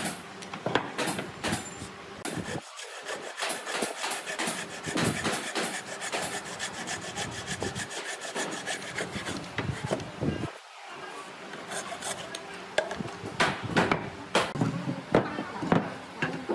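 A hand tool scraping or rasping wood in quick repeated strokes, with a short pause about two thirds of the way through.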